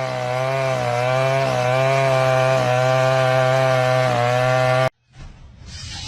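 A motor running steadily with a slightly wavering pitch, which cuts off abruptly near the end. A quieter hiss then rises.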